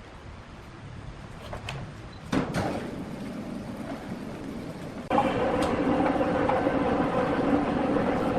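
Sawmill machinery: a few light knocks and clatter, then about five seconds in a steady mechanical running sound with a hum starts suddenly and carries on.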